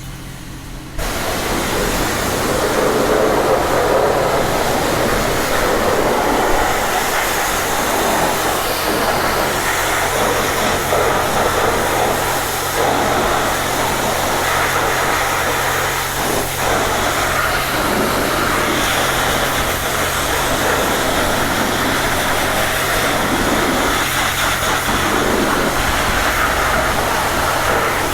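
High-pressure water spray from a coin-operated car wash wand, starting suddenly about a second in and then running as a steady hiss, with a steady low hum underneath.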